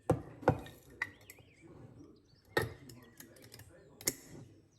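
About five sharp clinks and knocks of kitchenware being handled, spaced unevenly, each with a short ring.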